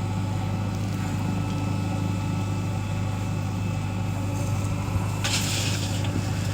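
Heavy diesel machine engine idling steadily with an even low hum. About five seconds in, a harsh rushing, crunching noise begins on top of it.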